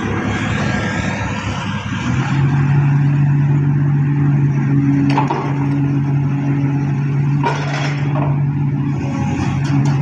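Heavy diesel machinery engine, most likely the excavator carrying the vibro hammer, running up to a steady, loud drone about two seconds in. A few sharp metallic clanks come over it, one in the middle, one a couple of seconds later and several near the end.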